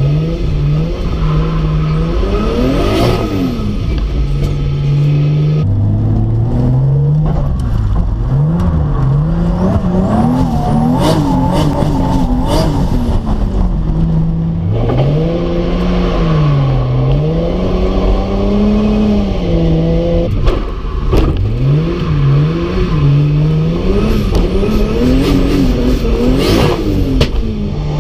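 Turbocharged 2JZ-GTE inline-six engine in a Nissan 240SX (S14), heard from inside the cabin. It revs up and drops back again and again through acceleration and gear changes, with stretches of steady running in between.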